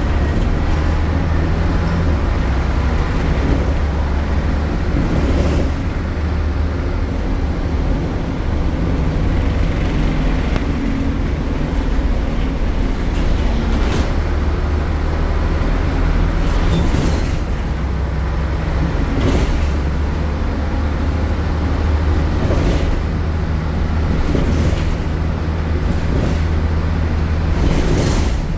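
MAN A76 Lion's City bus's Euro 4 engine running under way with the ZF automatic gearbox, a loud low drone whose pitch rises and falls as the bus pulls away and slows. Sharp knocks or rattles come through it several times.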